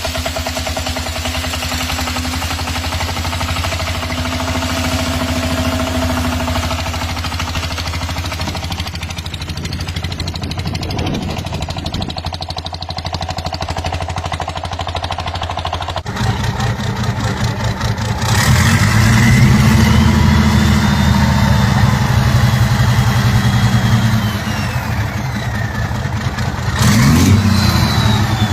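Motorcycle engine running steadily. After a sudden change about sixteen seconds in, an engine is louder and revving, its pitch rising and then slowly falling.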